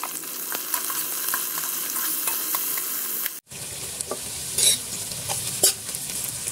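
Sliced onions, garlic and whole spices sizzling in hot oil in a metal pot while a spatula stirs and fries them, with sharp clicks and scrapes of the spatula against the pot. The sizzle breaks off for a moment a little past halfway, then carries on.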